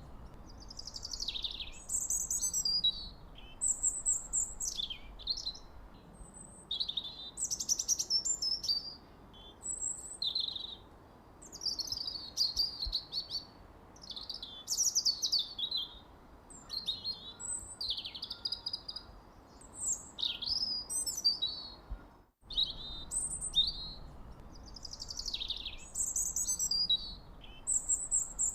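Songbirds chirping and twittering in quick clusters of high, mostly downward-sweeping chirps over a faint steady background hiss. The sound cuts out completely for an instant about 22 seconds in, then the chirping resumes.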